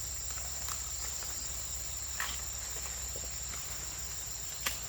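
Insects chirring in a steady high-pitched drone, with two sharp clicks, one about two seconds in and one near the end.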